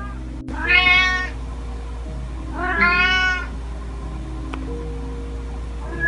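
A Scottish Fold cat meowing twice, each meow just under a second long, rising then falling in pitch, with a third meow starting at the very end. Background music with long held notes plays underneath.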